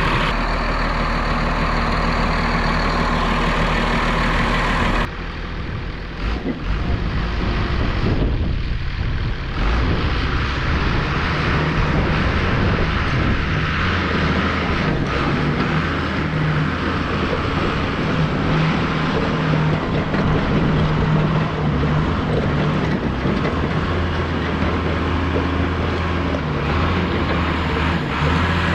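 Case 850D crawler dozer's diesel engine running, its steady low note broken by a sudden change about five seconds in, after which the engine note shifts up and down.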